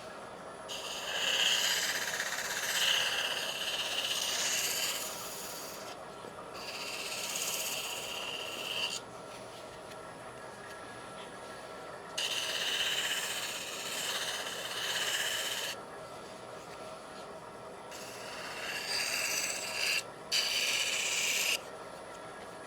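Sandpaper rubbing against a worn cherry wood spatula, taking the surface back to fresh wood. The sanding comes in four passes of two to four seconds each, each a steady rasping hiss with a thin squeal in it.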